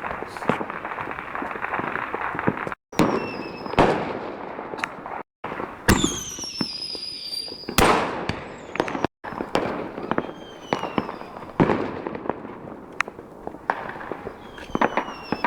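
A dense fireworks barrage: continuous crackling with many sharp bangs and several whistles that fall in pitch, the loudest whistle about six seconds in. The phone recording drops out to silence for an instant a few times.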